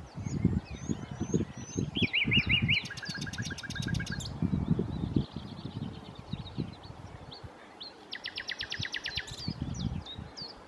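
Common nightingale singing: phrases of rapid repeated notes, a buzzy rattle and a fast trill, separated by short high whistles. A low, irregular rumble runs underneath.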